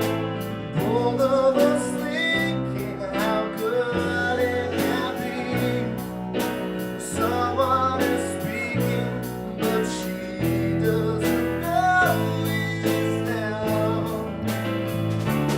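A live band playing a song: sung melody over guitar, bass and drums keeping a steady beat.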